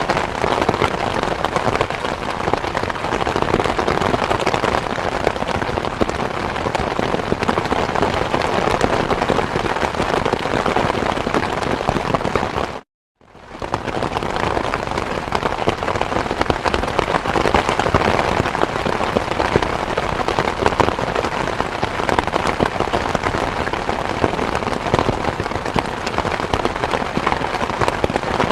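Steady rain falling, a dense even hiss of drops. About halfway through it cuts out to silence for a moment, then fades back in.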